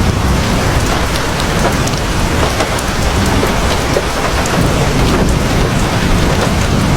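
Heavy rain falling steadily, with scattered sharp drop ticks over a steady low rumble.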